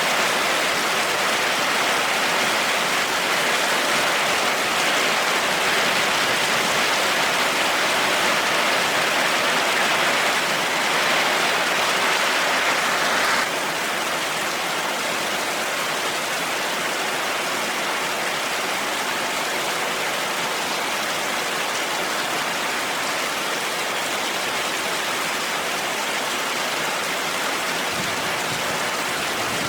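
Heavy rain falling steadily, with no thunder. Just under halfway through, it abruptly becomes a little quieter and less hissy, then carries on evenly.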